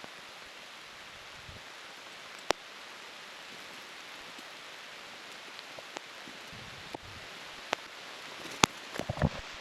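Steady rain falling, an even hiss with a few sharp taps of drops, the loudest about two and a half seconds in and again near the end, where some low knocks also come.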